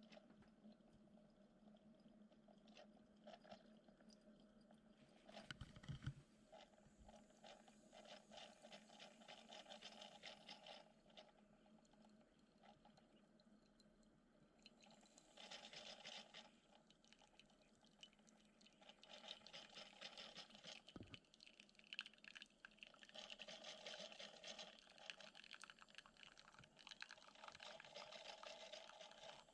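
Faint sputtering and trickling of liquid from a Shardor steam espresso machine pushing water through the coffee under steam pressure. It comes in uneven spells with quieter gaps between them.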